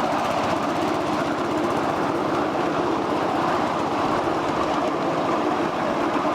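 1/8-scale ride-on miniature train running along its track, with a steady rattle and rumble of wheels on the rails.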